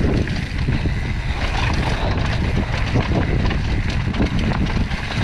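Mountain bike descending a loose, rough dirt trail: tyres rolling and the bike clattering over rocks and ruts, under steady wind rushing over the microphone.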